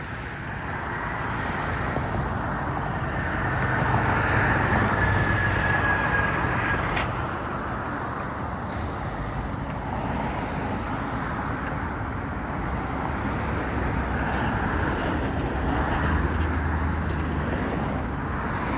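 Busy road traffic: cars passing one after another, the tyre and engine noise swelling and fading.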